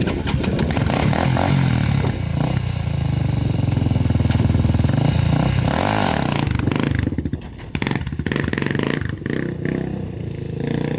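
A vehicle engine running hard and revving, its pitch rising and falling around the middle, then easing off briefly before it picks up again.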